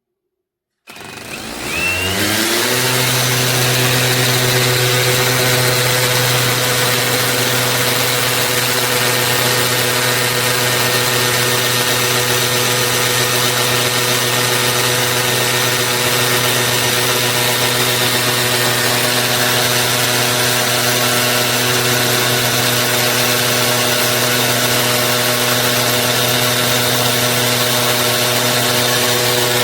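Cordless drill's brushless motor, an Einhell TP-CD 18/80 Li-i BL, spinning up about a second in and then running steadily at one speed.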